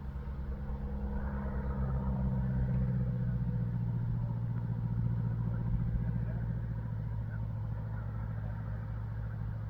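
A vehicle engine running steadily with a low hum and rumble, its pitch easing slightly lower about two to three seconds in.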